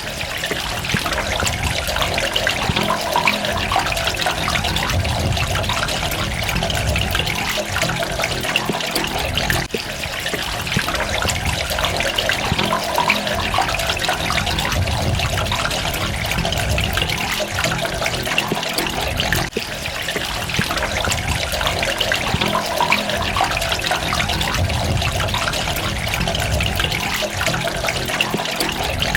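Running water trickling and splashing steadily, a continuous rushing patter of drops, with a brief dip in level about every ten seconds.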